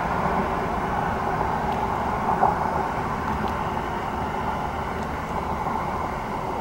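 Vehicle engine idling steadily, heard from the driver's seat of a parked open-top vehicle, with a faint steady hum under a low, even noise.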